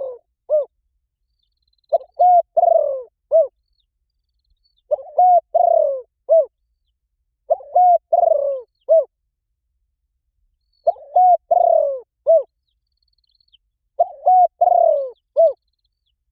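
Spotted dove cooing: a repeated phrase of two short coos, a longer falling coo and a short final coo, given five times about every three seconds. It is the 'gáy gọi' calling song.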